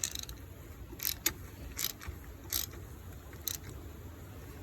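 Hand ratchet clicking as it is swung back and forth, running the oil filter housing cap down. The clicks come in short bursts, about one every three quarters of a second.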